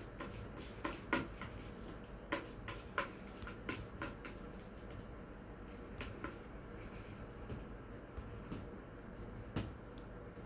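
Irregular light knocks, clicks and rattles from kittens playing in and around a bin, a few each second at times with short gaps between, over a steady low hum.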